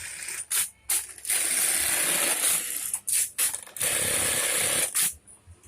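Juki 1850 bartacking industrial sewing machine running in two runs of a second or so. Sharp mechanical clicks and knocks come between the runs.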